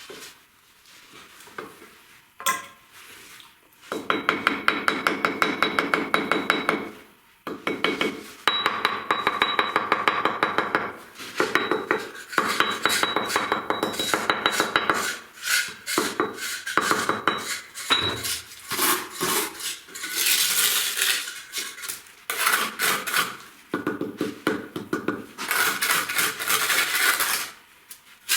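A metal hand tool scraping brick with quick back-and-forth strokes, in runs of a few seconds broken by short pauses.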